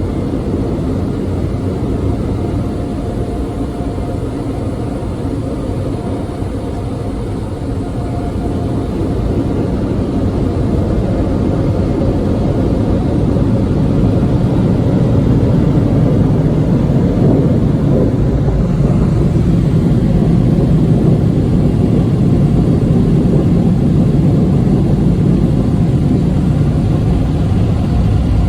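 D&S IQ 2.0 in-bay car wash machine running with a loud, steady rush of air typical of its dryer blowers, growing louder about halfway through and then holding.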